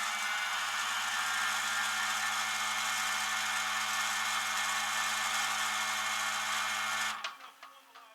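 A machine running steadily with a low hum under a broad hiss, cut off abruptly about seven seconds in.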